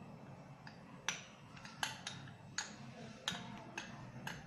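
A kitchen strainer tapped against a bowl to sift dry cocoa-powder mix through it: about six sharp light taps, roughly one every three-quarters of a second.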